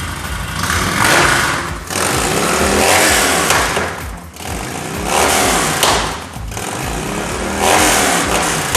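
Harley-Davidson Road King's Twin Cam 103 V-twin running through a TBR 2-into-1 shorty exhaust, revved four times with the pitch rising and falling on each throttle blip and settling back between revs.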